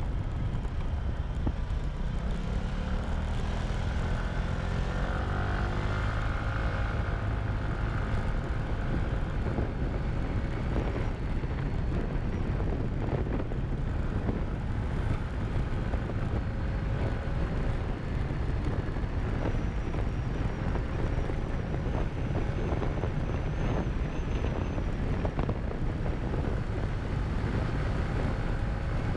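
Motorcycle engine running under way, with wind rushing over the camera microphone. The engine note climbs between about two and seven seconds in, then holds fairly steady.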